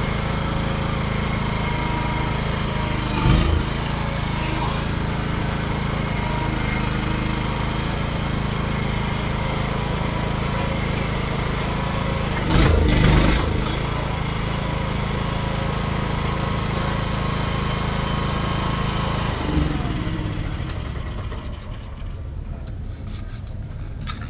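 An engine running steadily, with two brief louder bursts. Near the end its pitch sinks and the sound drops away as it winds down.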